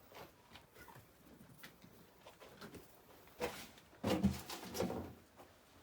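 Chickens in a hen pen, a few short clucks and squawks from about three and a half to five seconds in, after some faint scattered movement sounds.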